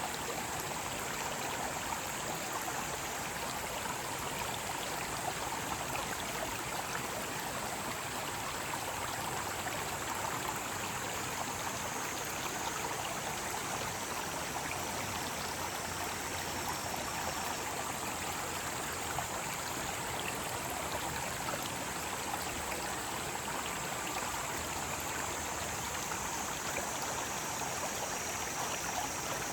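Mountain stream rushing steadily over rocks, with cicadas shrilling in a continuous high-pitched drone above the water.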